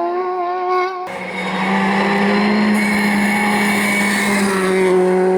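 Race car engine at high revs on a hillclimb. The sound changes abruptly about a second in, then one engine holds a steady, level note for several seconds, easing slightly lower near the end.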